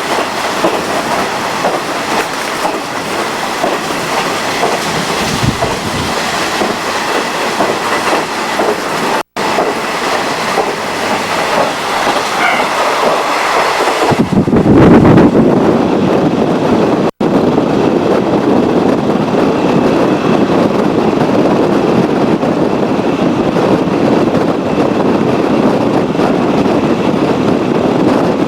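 Japanese National Railways passenger train running on the rails, heard from on board, with the clatter of wheels over rail joints. About 14 seconds in the sound turns deeper and louder, and it cuts out for an instant twice.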